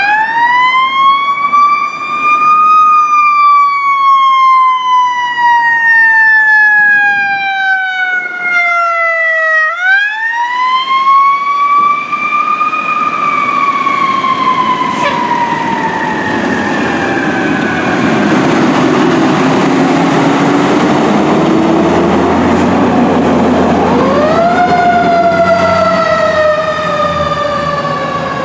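Fire apparatus siren winding up quickly in pitch, then slowly falling, three times over, with a low diesel engine rumble underneath in the later part.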